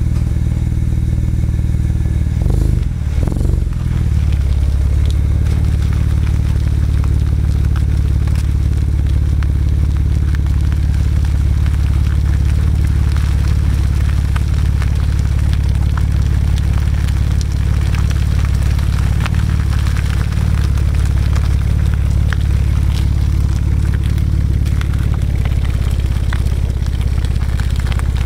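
BMW E90 335i straight-six droning steadily through an Autobahn Exotics exhaust with high-flow secondary cats and catless downpipes, heard close to the tailpipe with wind noise on the microphone. About three seconds in, the engine note briefly drops and comes back up, then holds steady.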